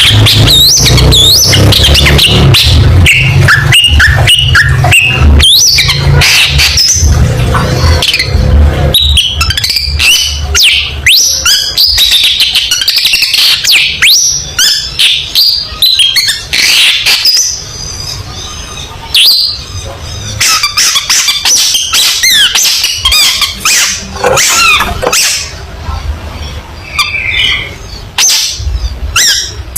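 Long-tailed shrike (cendet) singing a loud, fast, varied song of harsh chattering notes and quick whistled glides, rapid-fire with short breaks. A low rumble runs under the first nine seconds or so.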